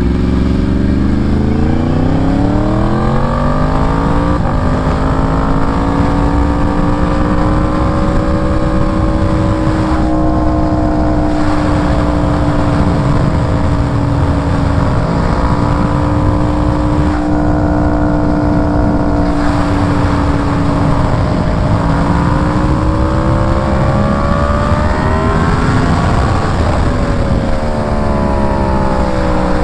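Yamaha R1's inline-four engine under way: it accelerates over the first few seconds, then holds a steady pitch at cruising speed, climbs again near the end and drops off, with wind noise over the microphone.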